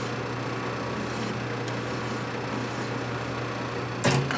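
Steady low hum of a running machine-shop machine, most likely the lathe, with a single sharp knock near the end.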